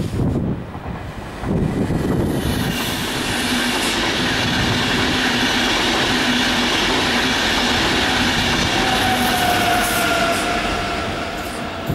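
An electric passenger train passes close by at speed. Its wheels on the rails make a steady rumble that builds about a second and a half in, with a low hum under it, and a thin wheel squeal that slides slightly down in pitch near the end.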